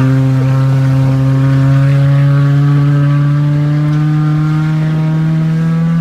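Honda CR-V's four-cylinder engine accelerating, heard from inside the cabin, its note climbing slowly and steadily in one gear.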